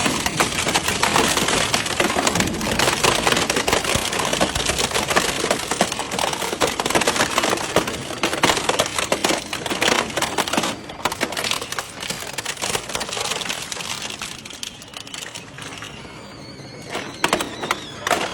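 Industrial shredder crushing and tearing scrap metal: a dense, irregular run of cracking and crunching that thins out and grows quieter near the end.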